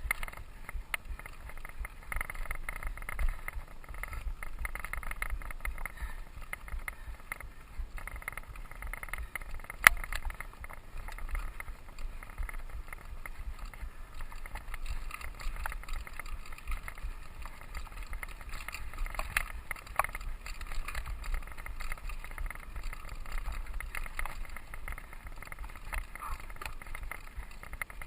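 Mountain bike riding along a dirt trail: steady tyre and wind noise with frequent small rattles and clicks. There is one sharp knock about ten seconds in.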